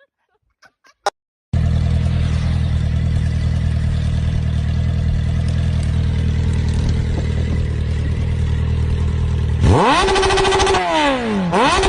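An engine starts running suddenly and keeps a steady low drone, then revs up and down twice near the end.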